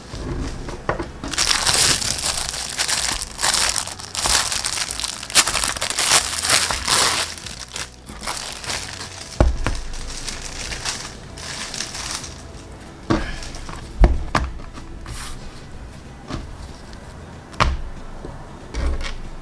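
Plastic packaging crinkling and crackling as a newly delivered item is unwrapped, most densely in the first half, followed by a few sharp knocks.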